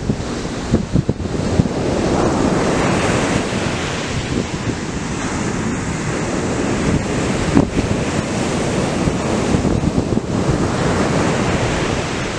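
Atlantic surf: waves breaking and washing up the beach in a continuous rush that swells about two seconds in and again near the end.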